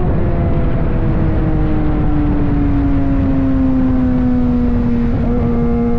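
Suzuki GSX-R750's inline-four engine running, its pitch falling slowly and steadily as the bike slows, over a low rumble.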